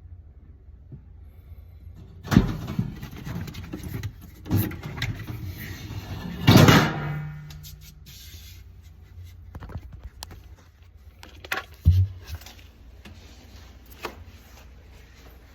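Knocks, clunks and scraping of parts and panels being handled during refrigerator repair work, over a steady low hum; the loudest clunk comes about halfway through.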